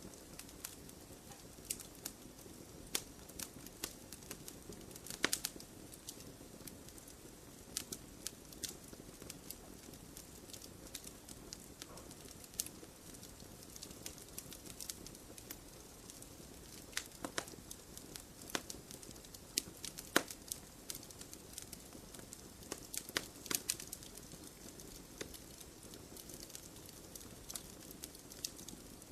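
Campfire burning in a stone fire pit: irregular sharp crackles and pops, with a few louder snaps about five seconds in and near twenty seconds, over a soft steady burning noise.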